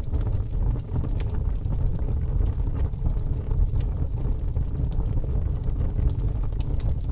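Fire crackling: a steady low rush with frequent small sharp pops and snaps scattered through it.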